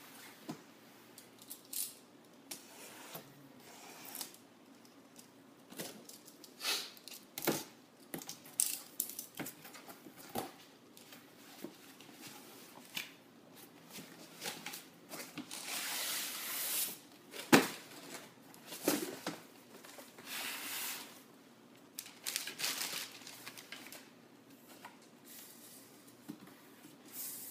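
A cardboard box being opened and unpacked by hand: tearing, scraping and crinkling of cardboard and packaging, with scattered knocks and clicks. There is a sharp knock about two-thirds of the way through.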